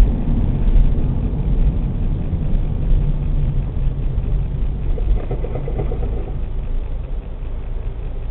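Diesel engine of a Mack LE refuse truck running steadily at a low, even speed.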